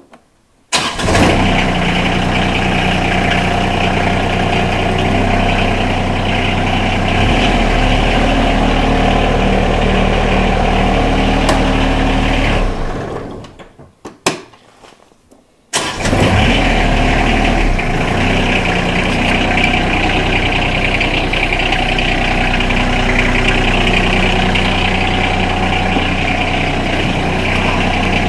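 A John Deere 2305's Yanmar three-cylinder diesel catches abruptly and runs steadily. About twelve seconds in it winds down and stops, and a few seconds later it catches again and keeps running.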